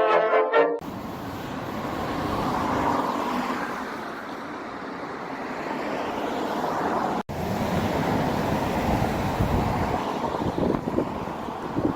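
Steady road and traffic noise of a car driving, a rushing sound that swells and fades gently, cut by a brief dropout about seven seconds in. A brass music sting ends just under a second in.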